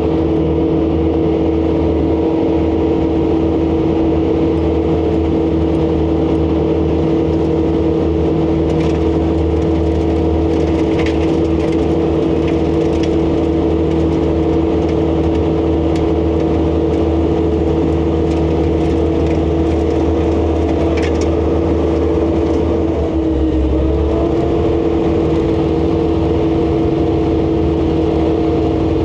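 ASV RC100 skid steer's diesel engine running steadily while driving a Wifo high-flow hydraulic snowblower, a loud constant drone with a steady hum. About 23 seconds in, the pitch sags briefly, as under a sudden load, and recovers.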